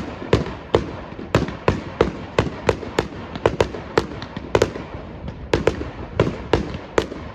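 Fireworks going off in a rapid barrage: sharp bangs, several a second, with crackling between them.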